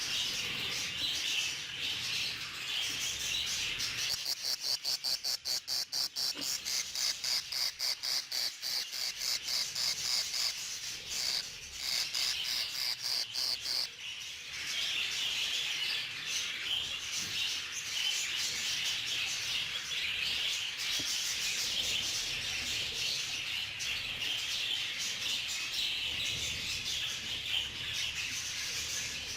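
A roomful of budgerigars chirping and chattering. From about four seconds in to about fourteen seconds in, a fast, evenly pulsed trill sounds over the chatter.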